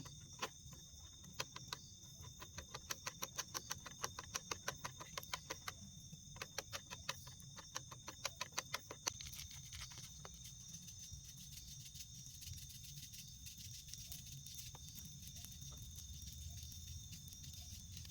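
Forest insect chorus: crickets or cicadas keep up steady high-pitched trills. Over the first nine seconds or so there is also a run of sharp, irregular clicks and snaps, several a second, which then stop.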